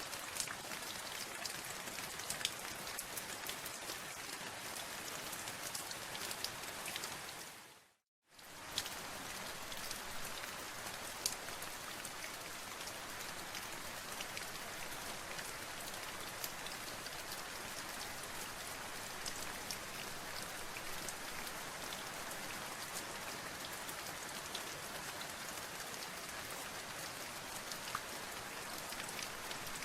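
Steady rain, an even hiss with scattered sharp drop ticks. About eight seconds in, the rain fades out to a moment of silence and straight back in.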